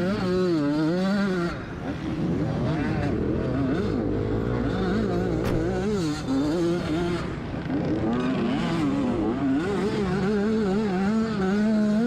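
Dirt bike engine running hard, its pitch rising and falling repeatedly as it revs up and down.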